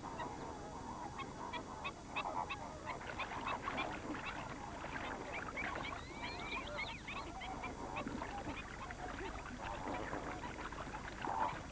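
A large flock of flamingos honking and calling together: a dense, continuous chorus of many overlapping goose-like calls.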